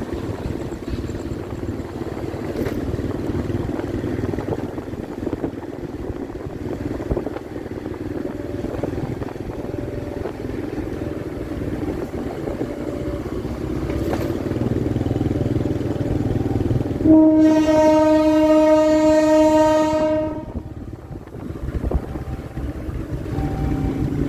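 Train running with a steady rumble that builds slightly, and its horn sounding one long blast of about three and a half seconds near the end, after which the rumble drops off.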